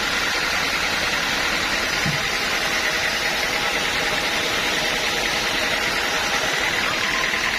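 Sawmill machinery running steadily, with a constant high whine over the machine noise.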